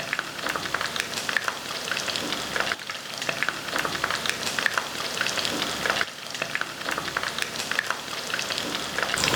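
Cornflour-coated chicken pieces deep-frying in hot oil: a steady crackling sizzle full of fine pops. The batch is about three-quarters cooked.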